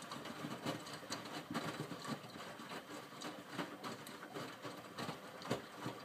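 Miele W562 front-loading washing machine tumbling wet laundry in its main wash: irregular splashes and soft thuds of clothes and water turning in the drum, on a gentle minimum-iron tumble.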